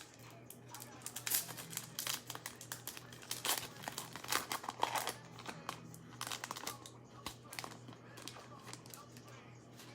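Foil trading-card pack wrapper crinkling and tearing as it is ripped open and handled, a run of quick irregular crackles that thins out in the last few seconds.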